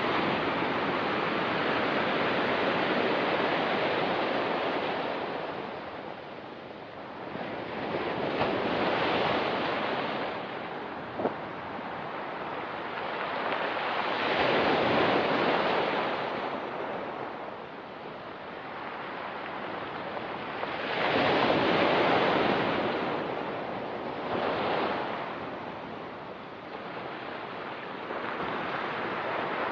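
Ocean surf: waves breaking and washing up the beach, the sound swelling and ebbing every several seconds. A single brief click sounds about eleven seconds in.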